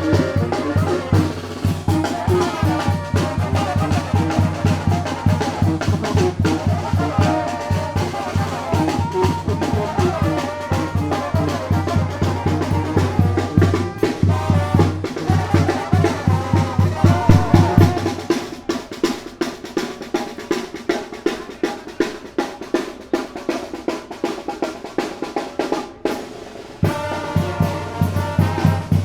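Zacatecan tamborazo band playing: brass over a pounding tambora bass drum and snare. A little past halfway the bass drum drops out, leaving the snare and brass, and it comes back in near the end.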